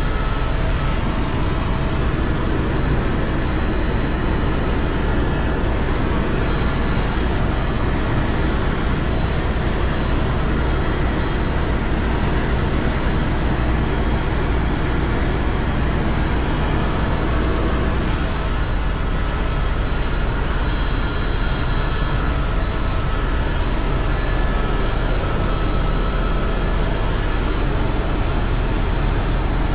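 Tour helicopter in flight, heard from inside the cabin: a steady, loud engine and rotor drone with a deep low rumble.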